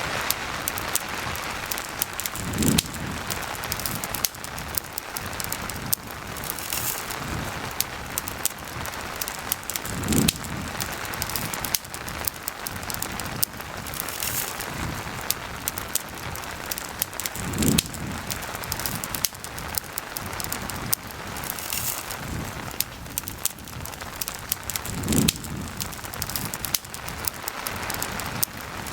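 Steady rain falling, with a wood campfire crackling and popping in many small sharp clicks. A short low thump comes four times at even spacing, about every seven and a half seconds.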